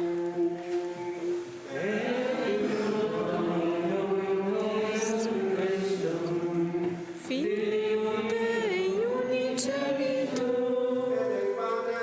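Voices singing a chant: a slow melodic line of long held notes.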